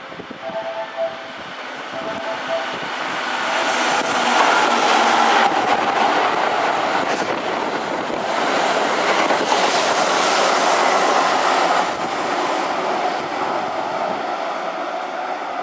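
Keihan 6000-series electric train running close by on the station tracks, its wheels clattering over rail joints and points. The noise builds over the first few seconds, holds loud for about eight seconds, then eases a little.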